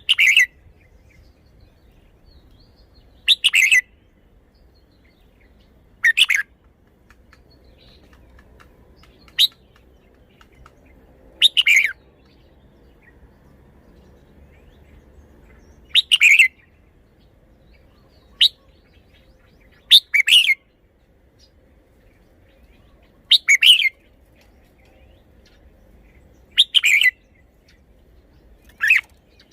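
Red-whiskered bulbul singing short, clear song phrases, one every two to four seconds with quiet pauses between them.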